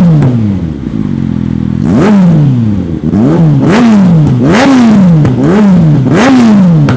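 A 2002 Yamaha R1's inline-four engine through a short-neck Termignoni exhaust, free-revving. It idles for about a second and a half, then is blipped about seven times in quick succession, each blip rising sharply in pitch and falling back.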